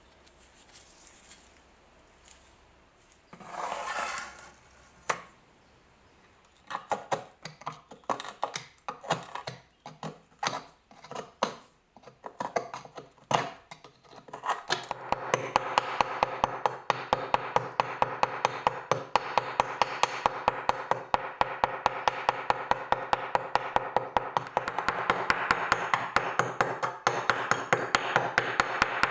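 Tapping and knocking on metal during work on a rusty steel bayonet. A short scrape comes first, then irregular knocks. From about halfway there is a fast, even tapping of about four strikes a second over a steady hum.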